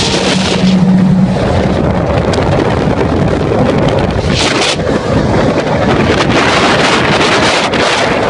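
Car engines running past, heavily mixed with wind buffeting the microphone; a steady engine note holds for about the first second, and a louder rush of noise swells about four and a half seconds in.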